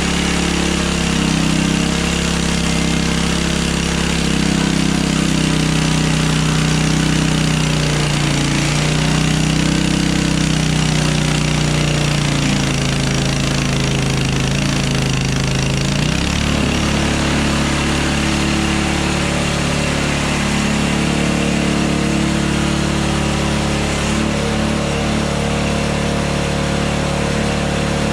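Engine of a Hudson Hunter band sawmill running steadily. Its pitch dips and recovers several times in the first half, then settles and holds steady for the rest.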